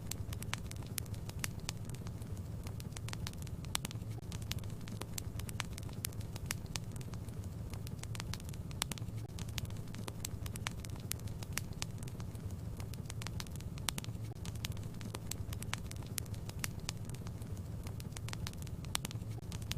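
Fireplace fire crackling: many small, sharp, irregular pops over a steady low rumble.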